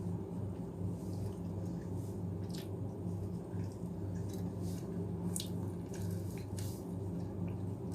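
Wet mouth sounds of someone eating rice with mashed potato: chewing with scattered short smacks and clicks, over a steady low hum.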